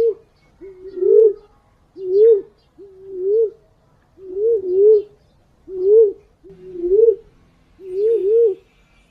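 Punai/walik forest pigeon cooing over and over, a low bending note about once a second, now and then doubled. This is the call used as a lure (pancingan) to draw these pigeons in.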